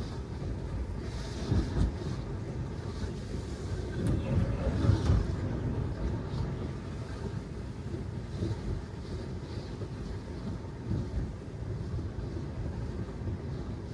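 Road and tyre rumble of a Tesla Model 3, an electric car with no engine note, driving over wet city streets. A few louder low thumps come about a second and a half in and again around four to five seconds in.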